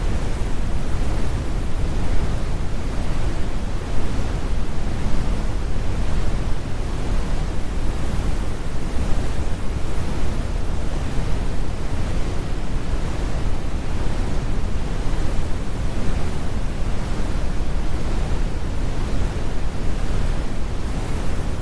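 Steady, deep brown noise, a continuous rumble with the high frequencies rolled off.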